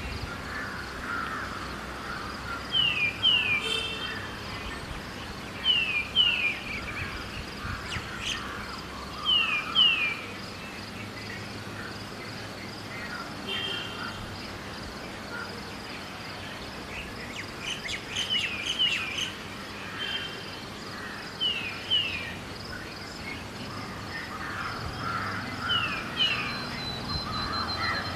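Birds calling at dawn: a repeated pair of quick falling whistled notes every few seconds over scattered chirping, with a faint steady insect trill and low city hum beneath.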